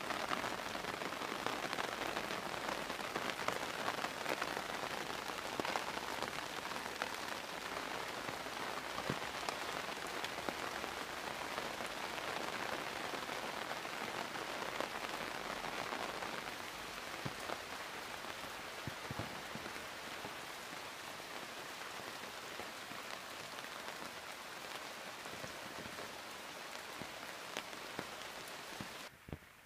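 Steady rain falling on the broad leaves of banana plants and other tropical foliage, a dense hiss with many single drops heard as small ticks. It eases slightly about halfway through and drops away suddenly near the end.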